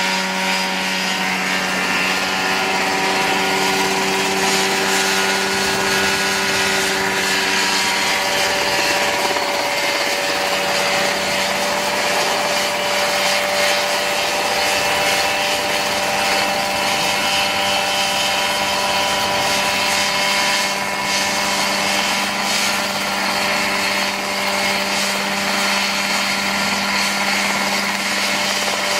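Engine of a home-built ultralight helicopter running steadily at a constant speed, shifting slightly in pitch about a third of the way in.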